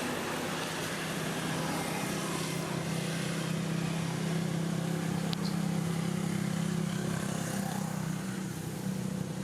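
An engine running steadily, a low even hum that eases near the end.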